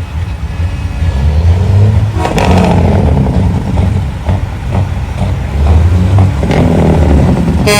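Diesel engines of big-rig trucks driving past in a convoy: a loud low rumble that swells as a truck revs by about two seconds in and again at about six and a half seconds. A truck air horn starts at the very end.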